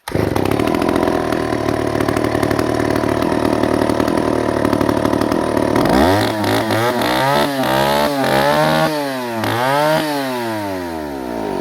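Stihl two-stroke chainsaw engine catching, running steadily for about six seconds, then revved up and down about five times in quick blips.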